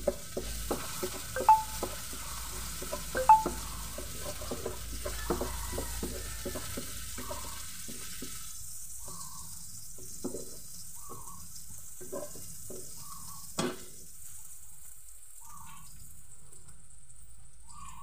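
Ginger, onion and garlic sizzling in hot oil in a wok while a metal spatula stirs them, with sharp clinks of the spatula against the pan. After about eight seconds the sizzle dies down and the clinks come only now and then.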